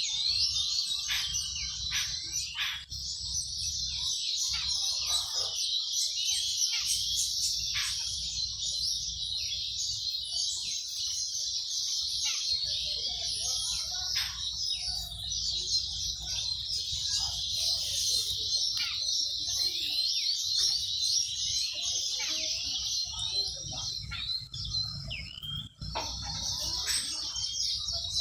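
A flock of small birds chirping continuously, many short high chirps overlapping in a dense chorus, over a steady low rumble.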